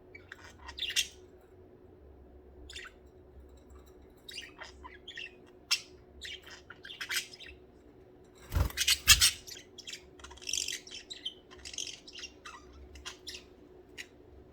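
Pet budgerigars chirping and chattering in short, scattered calls. About two-thirds of the way in comes a louder flurry of calls with a dull thump.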